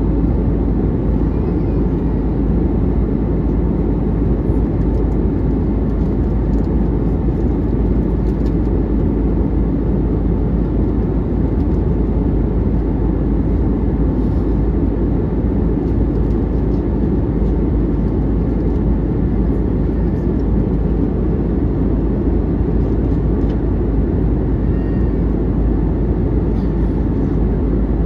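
Steady, even cabin noise of a jet airliner in flight: the low rush of engines and airflow, unchanging throughout.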